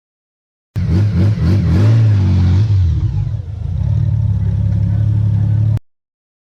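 Motorcycle engine revved up and down a few times, then running at a steady pitch. It cuts in and cuts out abruptly.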